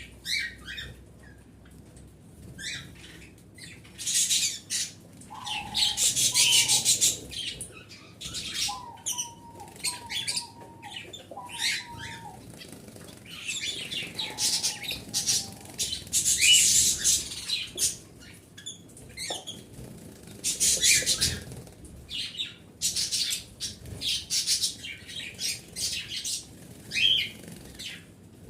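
Small pet birds calling in quick, harsh, screechy bursts of chirps and squawks, with a few short lower whistled notes in a row about five to twelve seconds in.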